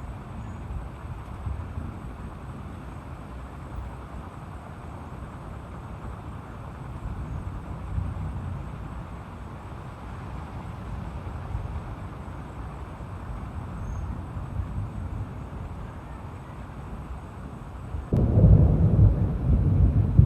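Tropical storm: a steady rush of wind and rain with a low rumble underneath, then a sudden loud rumble of thunder breaking in near the end.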